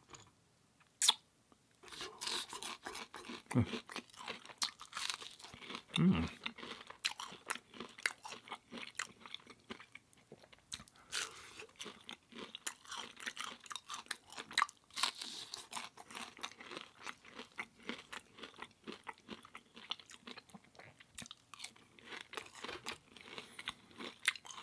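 Close-miked crunching and chewing of food, a plant-based sausage egg muffin and hash brown breakfast. One sharp click comes about a second in, then dense, irregular crackles of biting and chewing from about two seconds on.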